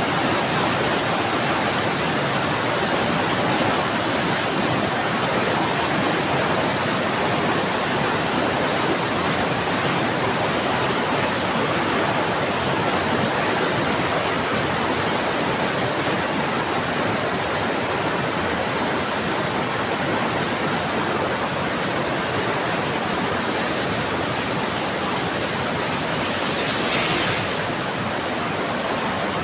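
Heavy rain falling in a steady, dense hiss, with a brief sharper, louder hiss a few seconds before the end.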